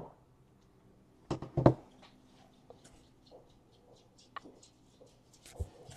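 Light handling of trading cards: two soft knocks about a second and a half in, then faint ticks and small rustles.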